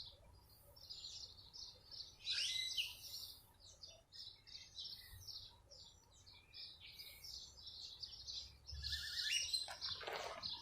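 Wild birds chirping and singing: many short, high calls, one after another.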